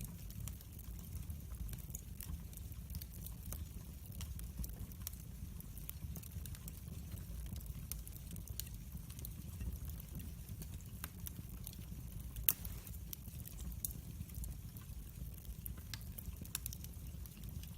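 Wood fire burning in a fireplace: a steady low rumble of the flames with irregular crackles and pops, one louder snap about twelve seconds in.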